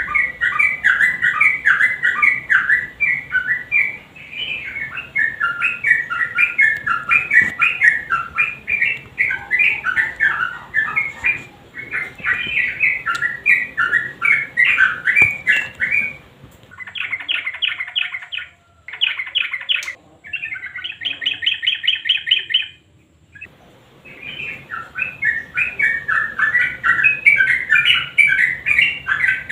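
Yellow-vented bulbul (trucukan) singing a loud, fast, bubbly warbling song. About two-thirds of the way in, the warbling breaks for several seconds of quick rattling trills of repeated notes, then the warbling resumes.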